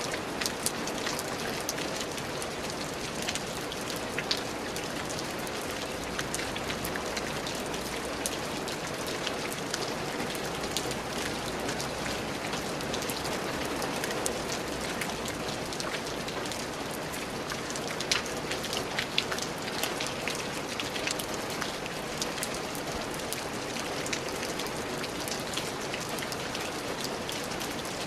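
Steady rain falling, a continuous hiss with many sharp drop splats and ticks scattered through it.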